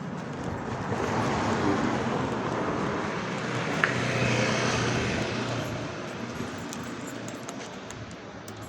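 A motor vehicle passing by, its engine and road noise swelling to a peak about four seconds in and then fading away.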